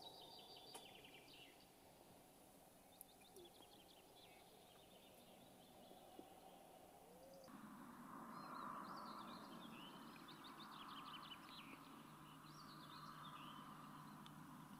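Faint songbirds singing, quick trills and short whistled phrases, over a quiet background hiss that grows a little louder about halfway through.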